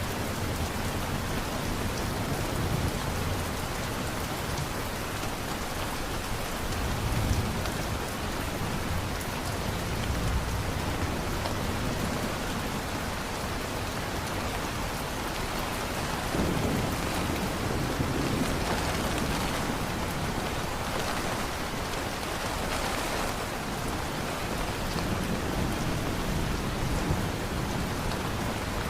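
Steady heavy rain, with low rumbles of thunder swelling and fading now and then, around a quarter and again past halfway.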